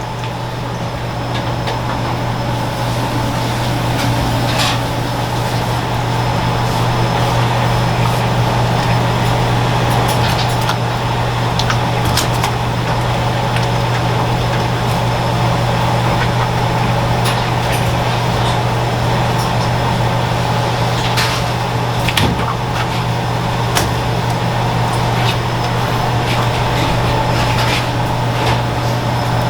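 A machine running steadily with a low, even hum, building up over the first few seconds, with light clicks and knocks now and then over it.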